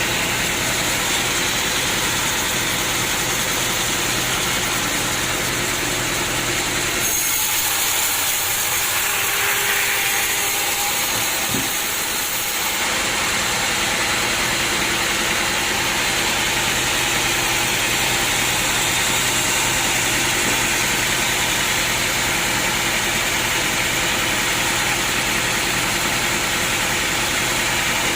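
Sawmill machinery running steadily, a motor hum with a high hiss. For about five seconds partway through, the low hum drops away and a brighter hiss takes over before the steady running resumes.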